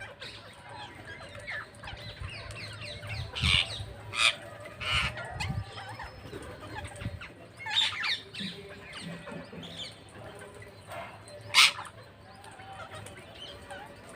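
Parrots squawking: short harsh calls, several loud ones bunched in the first half and a single sharp one near the end, with some low thuds among the early calls.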